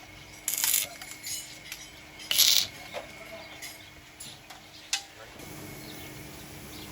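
Hand tools clinking and knocking on metal, with two short louder rasps, the first about half a second in and the second about two and a half seconds in. About five and a half seconds in, a steady low hum starts.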